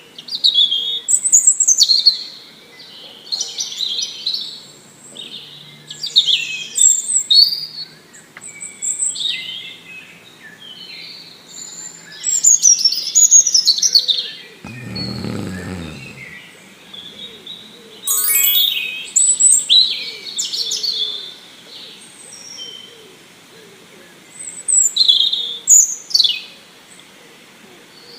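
Songbirds singing and chirping, with short phrases of quick rising and falling notes every second or two, and one fast rattling call about two-thirds of the way in. A brief low rumble comes about halfway through.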